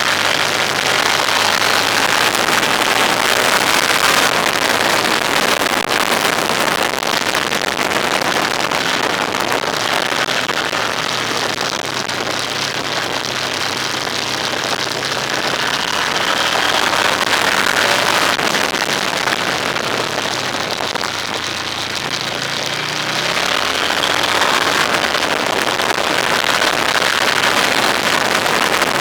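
Road vehicle under way: a steady engine hum beneath loud wind and tyre noise, the engine note changing about three-quarters of the way through.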